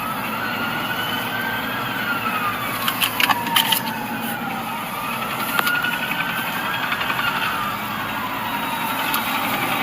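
Emergency vehicle siren sounding a slow wail, rising for about two seconds and falling for about three, twice over, above a steady rumble of traffic and engines. A few sharp clicks come about three seconds in.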